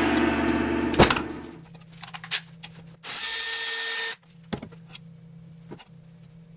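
Workshop sounds of metal parts and tools being handled. A struck metal part's ringing dies away with a sharp clack about a second in, then a hiss lasts about a second, followed by a few light clicks.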